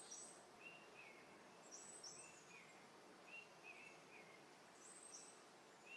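Faint outdoor bird calls: pairs of short high chirps about every three seconds, with lower, downward-sliding two-note calls between them, over quiet background hiss.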